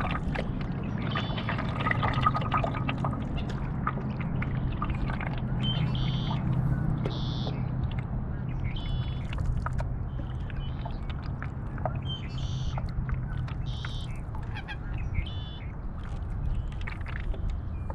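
Paddle strokes in lake water: water splashing, trickling and dripping off the paddle blade. Birds call repeatedly and briefly over it, many times.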